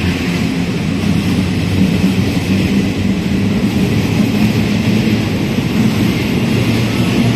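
Regional express train running into the station alongside the platform: a steady, loud rumble of wheels and traction with a low drone underneath.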